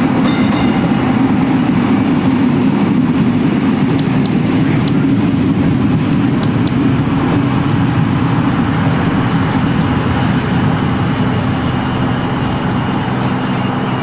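Vintage Melbourne W2-class streetcar running along its track, a steady low hum of traction motors and gearing under the rolling noise of steel wheels on rail, with a few faint clicks.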